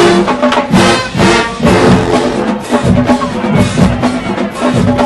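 Marching band playing loudly: brass section sounding sustained chords over drums, with strong accented hits at a steady beat.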